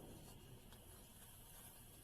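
Near silence: faint background noise with a slight tick under a second in.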